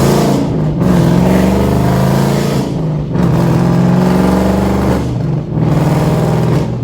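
V8 muscle car engine accelerating hard through the gears, with brief dips at each upshift, about three times.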